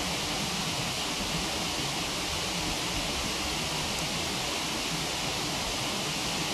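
Waterfall rushing steadily, with one faint tick from the wood fire about four seconds in.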